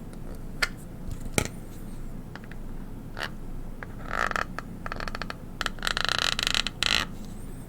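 A stylus tapped and scraped on a hard surface: two sharp taps, then short scratchy scrapes, one with a fast ratcheting texture, and a longer, louder scrape near the end.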